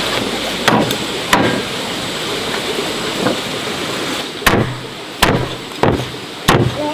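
Steady hiss of rain, easing about four seconds in, with about six sharp knocks of something hard being struck. The last four knocks come roughly every two-thirds of a second.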